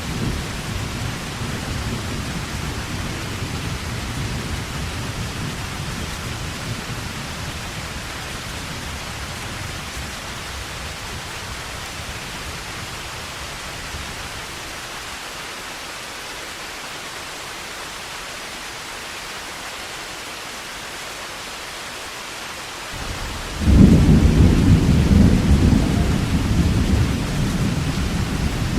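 Heavy rain falling with a steady hiss. A low thunder rumble dies away over the first several seconds, and near the end a sudden loud clap of thunder breaks in and rolls on.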